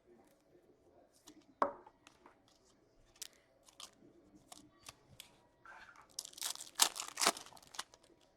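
Trading card pack being torn open and cards handled: scattered light taps and card slides, a sharp knock about a second and a half in, then a crinkling rip of the pack wrapper around six to seven and a half seconds in.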